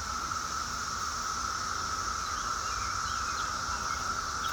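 Steady chorus of insects, two even drones, one mid-pitched and one high, holding without a break, with a few faint short bird chirps scattered through it.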